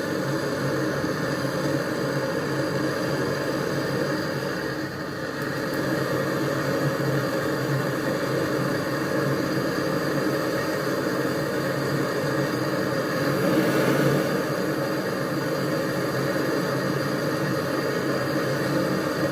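Steady mechanical drone of a motor running continuously, with a brief dip about five seconds in and a slight swell later on.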